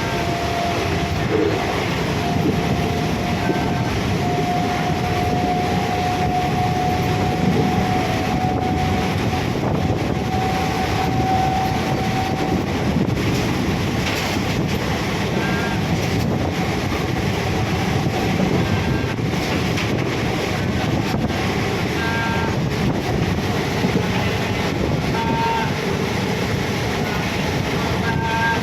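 Steady rumbling noise of a moving vehicle, with a long steady tone that fades out about twelve seconds in and short high tones now and then.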